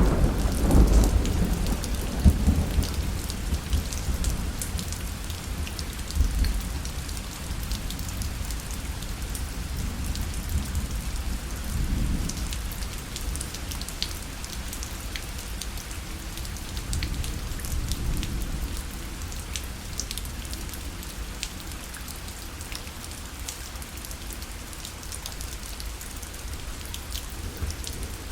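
Rain falling on a parasol, with many fine drop ticks, under low rolls of thunder. The loudest thunder comes right at the start and fades over a few seconds, and weaker rumbles return several times.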